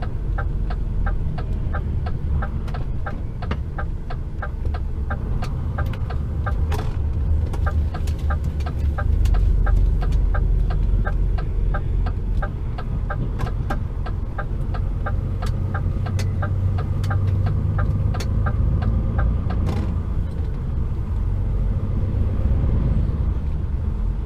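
Cab interior of an HGV container lorry on the move: steady diesel engine and road rumble. Over it comes the indicator's regular ticking, a few clicks a second, which stops about twenty seconds in as the lorry works through a roundabout.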